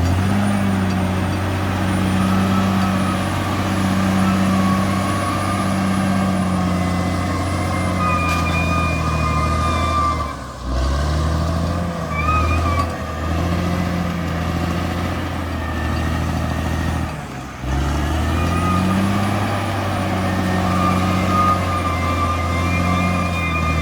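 Bulldozer's diesel engine running with a steady low drone. The sound drops out briefly twice, about ten and seventeen seconds in.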